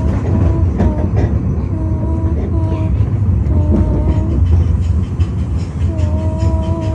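Narrow-gauge train of the Groudle Glen Railway running, a heavy steady rumble from the wheels and cars, with short steady tones coming and going on top.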